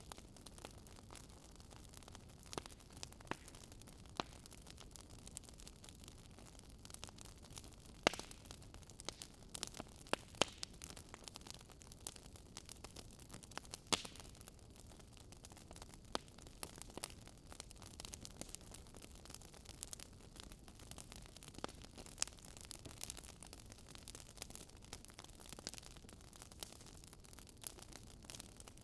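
Fireplace fire crackling: a faint steady hiss broken by irregular sharp pops and snaps, the loudest about 8 and 14 seconds in.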